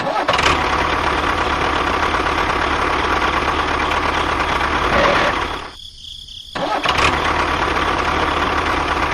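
Engine of a homemade mini tractor running steadily with a low, even chugging. It drops away for under a second about six seconds in, then carries on.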